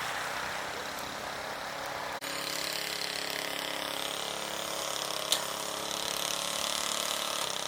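A vehicle engine running steadily at idle, with a short sharp click about five seconds in. The sound breaks off briefly about two seconds in and stops abruptly at the end.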